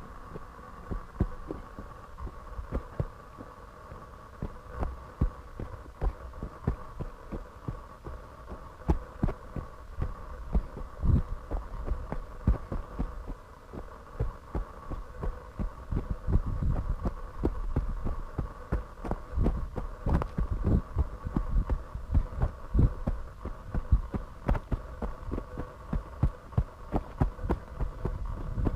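A trail runner's footfalls picked up by a body-worn camera: a quick rhythm of low thuds and knocks, about two to three a second, heavier in the second half, over a steady high hum.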